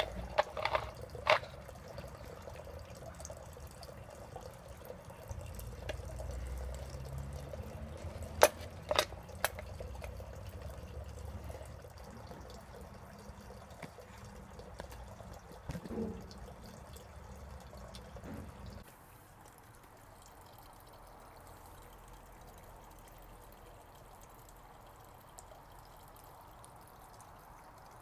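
Water trickling and dripping in a DIY 3D-printed hydroponic drip system, with a few sharp drip sounds. The sound drops to a fainter, steady level about two-thirds of the way through.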